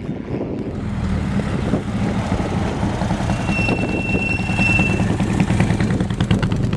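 Prewar racing car engines running on the circuit, the sound growing louder toward the end as a car draws near. A thin, steady high tone sounds over it for about a second and a half midway.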